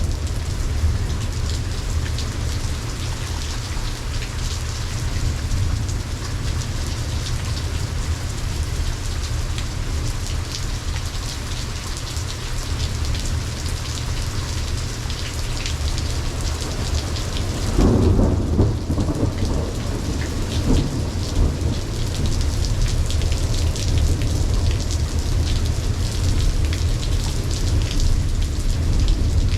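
Steady rain falling, with a thunderclap and rumble of thunder about two-thirds of the way through.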